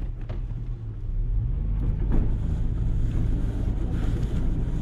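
Pickup truck engine running while plowing snow, heard from inside the cab; it grows louder about a second and a half in.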